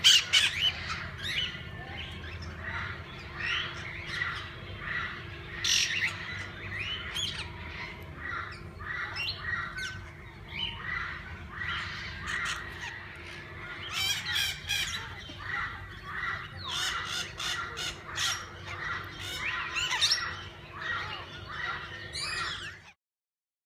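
A flock of parakeets in an aviary calling over one another, a dense run of harsh squawks and chirps that stops abruptly near the end.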